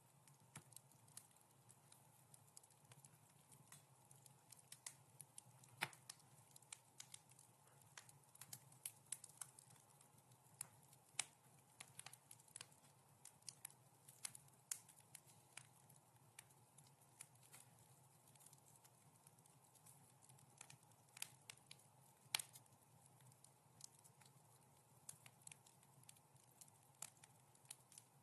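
Wood fire crackling softly in a fireplace: irregular small pops and snaps, a few of them sharper and louder, over a faint steady low background.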